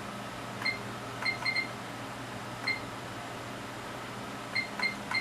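Front-panel keys of an HP 3245A Universal Source being pressed, each press a click followed by a short high beep. There are about eight presses in irregular groups, a few in the first two seconds and a quick run near the end, over a steady hum.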